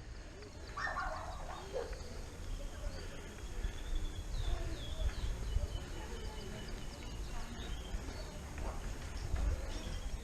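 Birds chirping faintly, with short high chirps and trills clustering about four to six seconds in, over a steady low rumble and faint indistinct voices.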